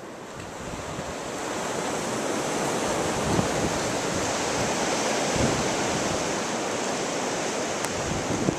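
Blizzard wind blowing in a steady rush that builds over the first couple of seconds, with gusts buffeting the microphone.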